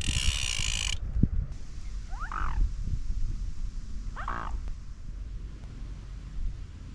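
Two short animal calls about two seconds apart, each a brief pulsing croak, over a steady low rumble of wind on the microphone. A loud burst of hiss fills the first second.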